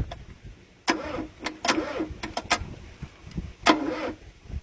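The starter motor of a 1971 Opel GT, bridged by hand, spins in several short bursts. Each burst starts with a sharp click and gives a brief whir that rises and falls. The engine does not catch and run.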